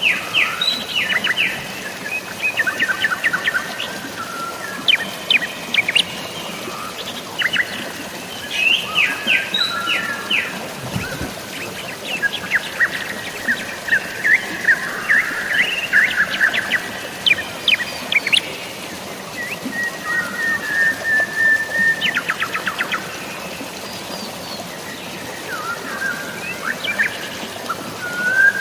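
Several songbirds chirping, trilling and whistling in quick, overlapping phrases over a steady hiss of falling water from drizzling rain and a waterfall.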